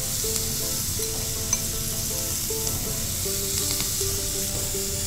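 Jerk-marinated prawns frying in olive oil and butter in a pan, a steady sizzle.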